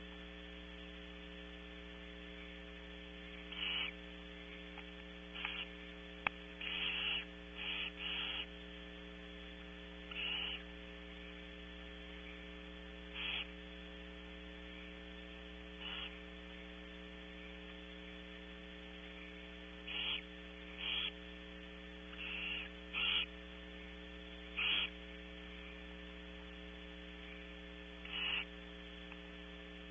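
Barn owls giving short, rasping hisses at irregular intervals, about fifteen in all, some in quick pairs. A steady electrical mains hum runs underneath.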